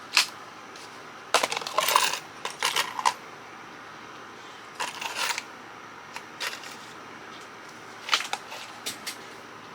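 Small pieces of metal scrap clinking and rattling as they are handled and dropped into a cup, in several short bursts of jingling with pauses between them.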